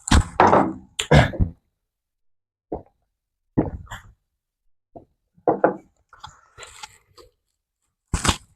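Close-miked mouth noises of someone eating: short crunching bites and chewing sounds. There is a strong pair in the first second and a half, then smaller ones scattered through.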